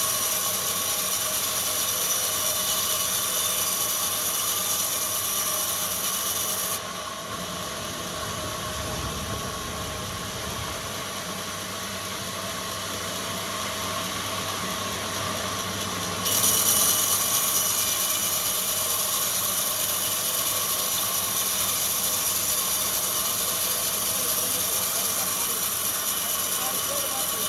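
Woodworking machinery in a plywood mill running steadily, a constant mechanical noise with a high whine. The sound turns duller and quieter abruptly about seven seconds in and comes back about sixteen seconds in.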